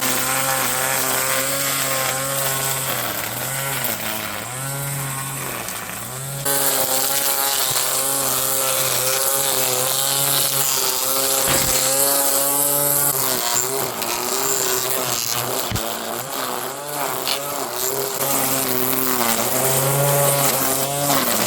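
Ryobi 18V cordless string trimmer running, its motor pitch rising and falling again and again as the trigger is eased and squeezed while cutting grass along the edges.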